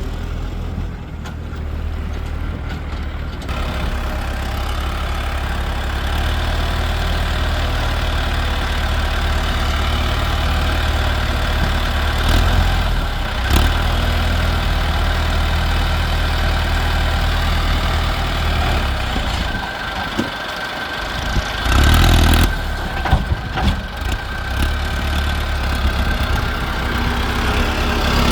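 Mahindra Arjun tractor's diesel engine running under load as it hauls a loaded mud trolley up a steep ramp, its front end lifting. The engine note grows louder a few seconds in, dips briefly about two-thirds through, then surges loudly.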